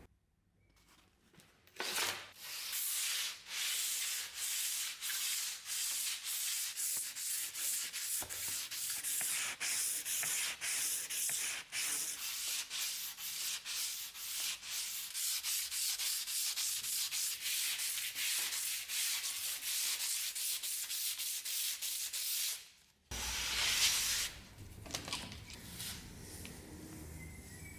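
Abrasive rubbing in quick, even back-and-forth strokes, a hiss that starts about two seconds in and runs for around twenty seconds before stopping abruptly, with one more short rub just after.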